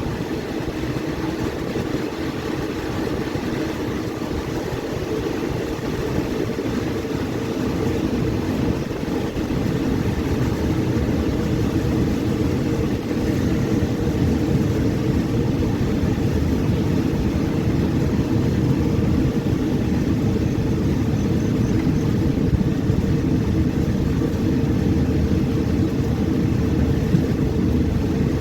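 Steady rumble of a moving passenger train heard from inside the carriage: wheels and running gear on the rails, growing gradually louder.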